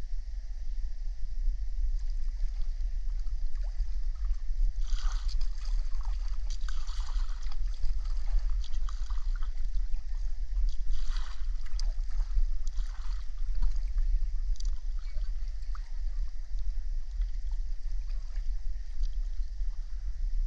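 Water splashing and gurgling in irregular bursts, several of them between about five and thirteen seconds in, over a steady low rumble.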